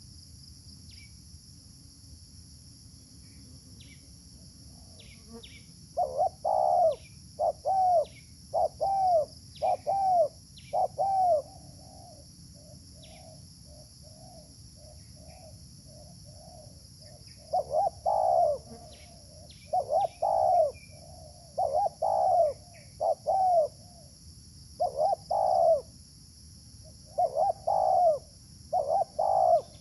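Spotted dove (terkukur) cooing: two bouts of repeated, arching coo notes, the first starting about six seconds in and the second after a softer stretch, over a steady high insect drone.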